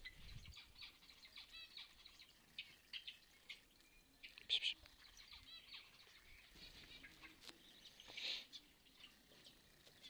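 Small aviary birds chirping faintly and repeatedly in short twittering calls, with a louder call about halfway through and another near the end.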